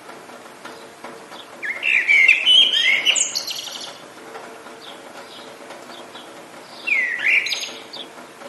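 A songbird singing two loud warbling phrases, the first about two seconds in and the second near the end, with faint chirps from other birds between them. A soft, steady hiss of rain runs underneath.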